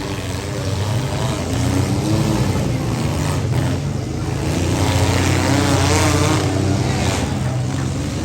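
Several compact demolition-derby car engines running hard and revving, their pitch wavering up and down as the cars drive about the arena.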